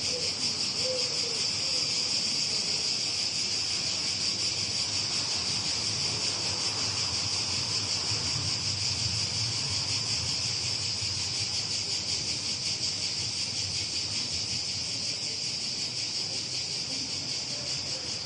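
Continuous insect chorus: a steady, high-pitched, finely pulsing trill that holds unchanged throughout.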